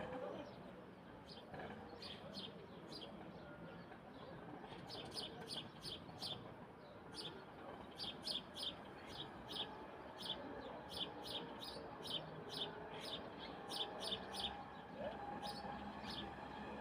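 Bird chirping in short, sharp repeated notes, a few at first, then about two a second from about five seconds in, over a faint steady background hiss.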